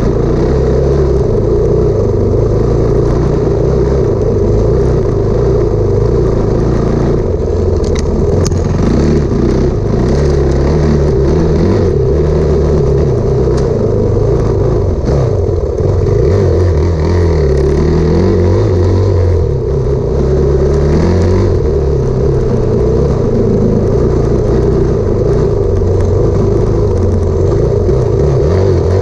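Enduro motorcycle engine running loud and close as the bike is ridden through snow, its revs rising and falling with the throttle.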